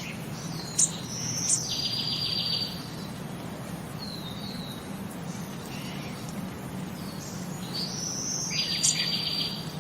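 Bird calls: sharp high chips and a buzzy, rapidly pulsed trill, the pattern coming twice, about a second in and again near the end, with a few short slurred notes in between.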